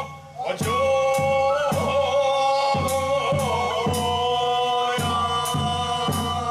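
Bangaku folk-performance music: held, chant-like pitched notes over steady drum and cymbal beats, about two a second. The music drops out briefly at the start and then resumes.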